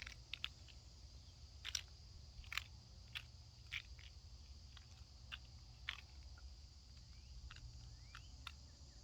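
Chipmunk chewing and cracking a peanut shell: faint, sharp, irregular cracks, about a dozen in all.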